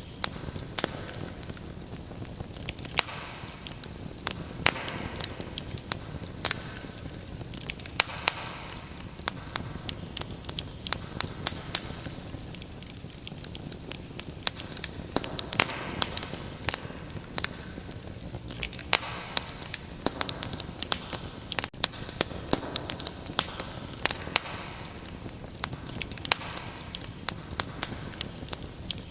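Wood fire crackling: a steady low hiss with frequent sharp pops and snaps, several a second.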